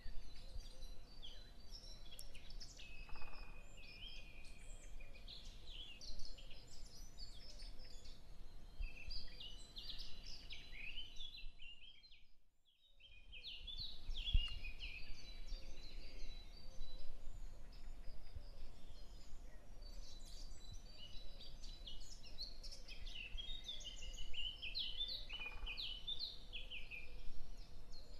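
Birds chirping and twittering continuously over a faint steady hiss, fading out briefly about halfway through.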